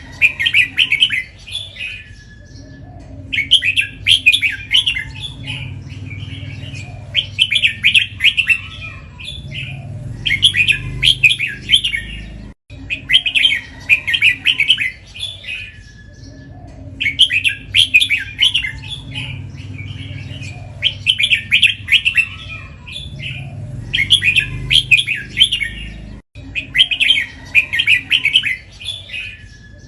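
Red-whiskered bulbul singing, repeating a short bright warbled phrase every two to three seconds, some phrases following close on one another in doubled pairs.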